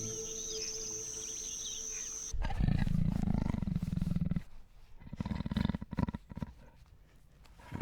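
Soft music with high bird-like chirps cuts off about two seconds in. A large animal's deep, rough roar follows for about two seconds, then a few shorter rough grunts.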